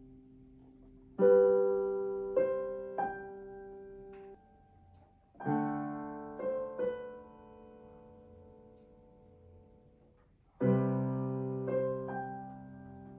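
Slow solo piano music: three phrases, each a loud struck chord followed by two or three softer notes, left to ring and fade between them.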